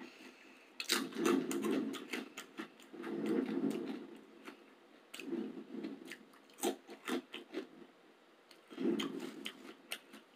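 A person chewing crunchy food with the microphone held right at the mouth: crisp crunches and wet mouth sounds come in several bouts with short pauses between them.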